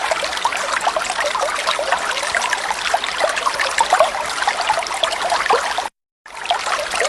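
Running water of a waterfall, a steady trickling and splashing with no bird calling. It cuts out to silence for a split second about six seconds in, then resumes.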